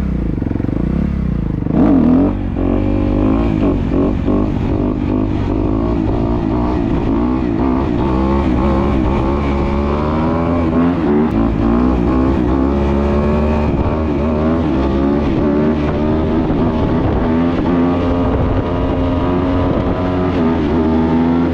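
Dirt bike engine running at steady speed with small rises and falls in revs, cutting off suddenly near the end.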